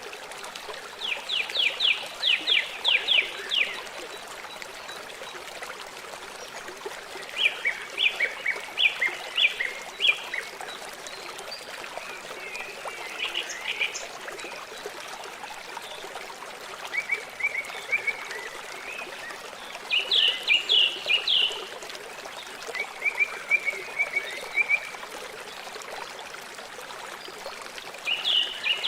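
River water flowing steadily. Over it, a calling animal repeats short bursts of rapid high notes every few seconds.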